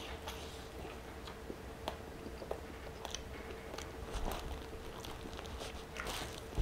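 Close-miked chewing of a big mouthful of chili cheese burger: wet smacks and small clicks of the mouth working through bun, patty and toppings. Near the end, wrapping paper rustles as the burger is set down on it.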